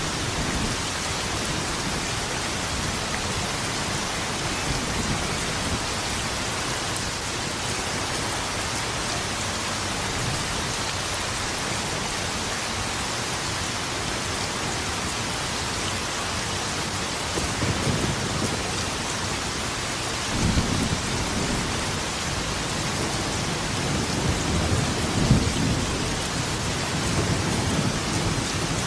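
Steady heavy rain hissing, with rolls of thunder rumbling in over the second half, the strongest peals at about twenty and twenty-five seconds in.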